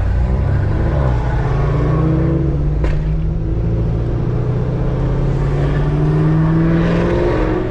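Camaro ZL1's supercharged V8 through a Corsa exhaust and American Racing headers, pulling under acceleration. The note rises steadily in pitch for several seconds, then drops near the end.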